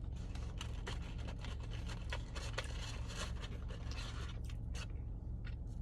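Rustling, scraping and small clicks of food and its paper wrappings being handled, busiest around the middle, over a steady low hum.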